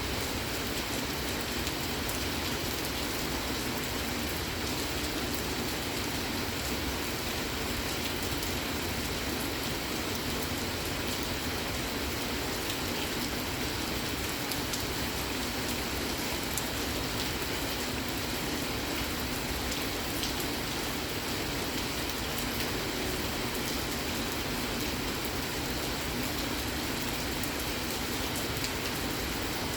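Steady rain: an even hiss dotted with the ticks of single drops.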